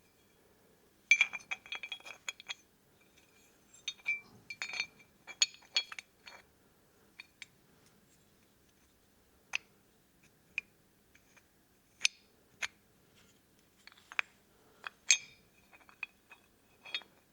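Small metal parts of a taken-apart HEO Solution motorhome security lock clicking and clinking as they are handled and fitted back together. The sound comes as scattered light taps, some with a brief metallic ring, in two quick clusters near the start and then single clicks every second or two.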